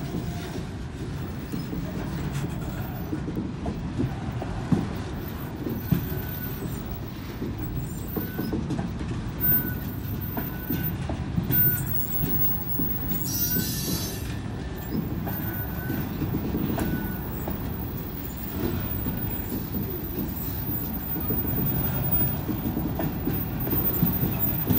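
Loaded ballast train's cars rolling by with a steady low rumble and wheel clatter. Brief high squeals from the wheels and brakes come several times, with a short burst of hiss about 13 seconds in.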